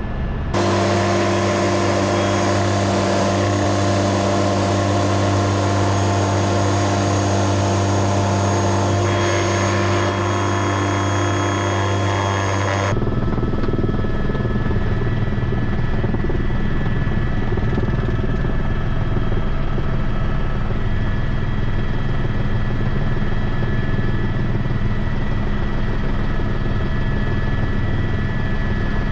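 Helicopter engine and rotor noise, loud and steady, with abrupt changes in character about half a second in and again about 13 seconds in where the recording is cut.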